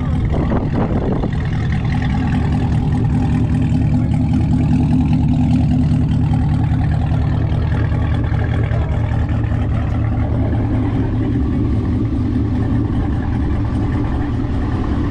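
Chevrolet Camaro 2SS's V8 engine running steadily at an even pitch with a low drone.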